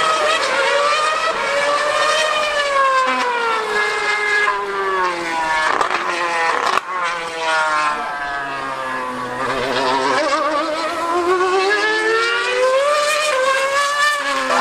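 2013 Formula 1 car's 2.4-litre V8 screaming at high revs round the circuit, its pitch climbing and falling again and again as it accelerates, changes gear and brakes into corners, with a short break about seven seconds in.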